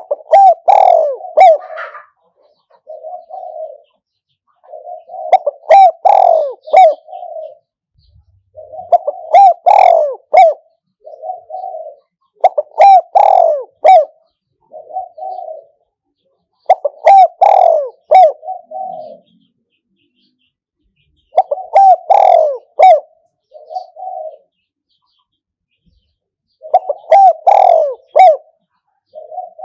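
Decoy spotted dove cooing, the calling used to lure wild doves to a trap. A loud coo phrase repeats about every four seconds, seven times, each followed by a shorter, quieter coo.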